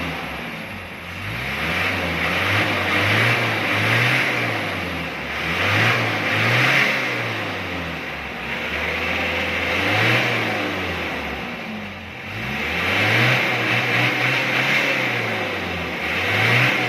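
Mitsubishi Adventure diesel engine being free-revved over and over, each rev climbing and dropping back, about nine times. This is a smoke-belching test of the exhaust.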